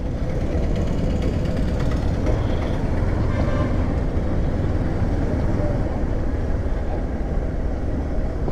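Motorcycle engine running steadily while being ridden, with wind and road noise, heard from on the bike.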